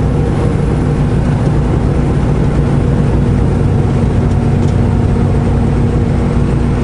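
Semi truck's diesel engine running steadily with road and cab noise, heard from inside the cab.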